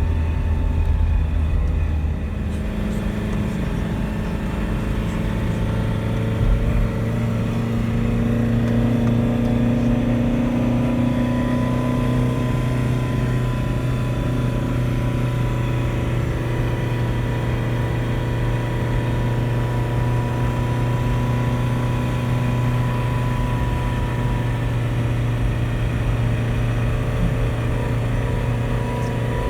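Car engine running steadily under load with tyre and road noise while driving; the engine note shifts about two seconds in.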